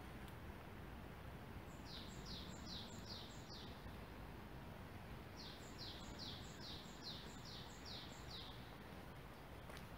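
A songbird singing two short bursts of song, each a quick run of repeated high notes that fall in pitch, the second run longer than the first, over faint steady background noise.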